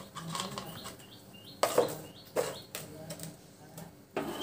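Small birds chirping in short repeated calls, with two sharp knocks about one and a half and two and a half seconds in.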